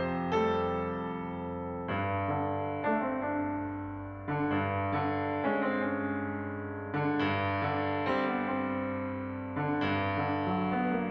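Background piano music, calm chords struck every couple of seconds and left to ring.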